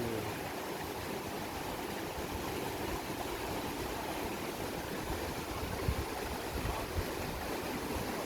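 Monsoon-swollen mountain river rushing steadily, with a couple of brief low thumps about two-thirds of the way through.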